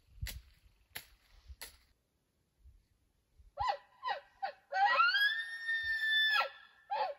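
Bull elk bugling. A few short rising-and-falling notes climb into a long high whistle, held for about a second and a half before it breaks off, followed by short grunting notes. A few sharp clicks come before it, in the first two seconds.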